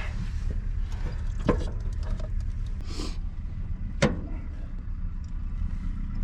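Steady low hum of an idling engine, with a sharp clink of metal on metal about a second and a half in, a short hiss about three seconds in, and a louder clink about four seconds in.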